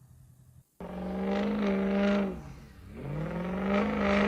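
Truck engine starting abruptly about a second in and pulling hard. Its pitch holds, drops briefly at a gear change about halfway through, then climbs again as it accelerates.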